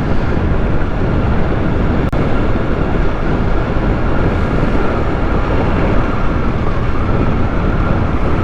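Motorcycle riding at a steady speed, its engine running under a continuous rush of wind over the microphone.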